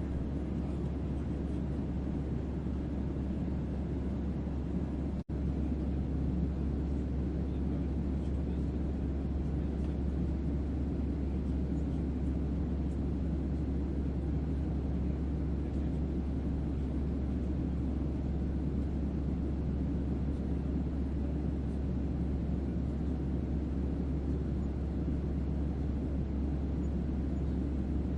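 Steady starship-interior ambience: a deep bass hum under an even rumbling hiss, like white noise. It cuts out for a split second about five seconds in.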